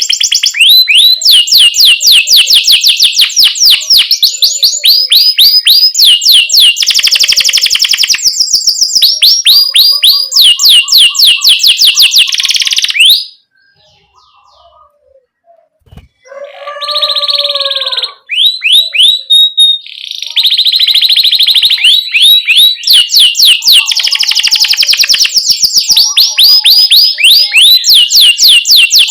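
Domestic canary singing fast rolling trills of rapid repeated falling chirps. About halfway through it pauses for a couple of seconds, then starts up again with a few lower notes before the fast trills return.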